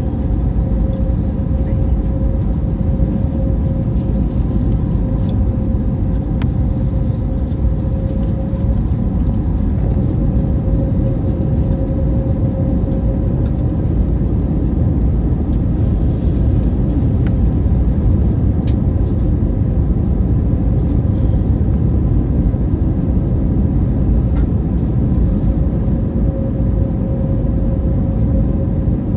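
Cabin noise aboard an Airbus A321neo airliner: a steady, loud low rumble of engines and airflow with a constant hum on top.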